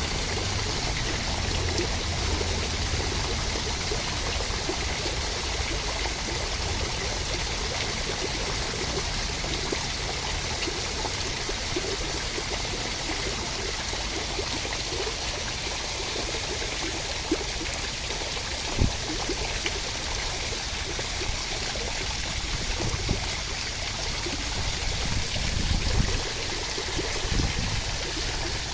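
Steady rushing water sound, running continuously, with a few small drips or pops standing out now and then.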